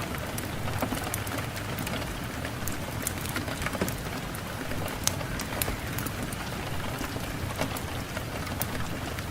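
Steady rain falling, with many separate drops pattering sharply on a hard surface.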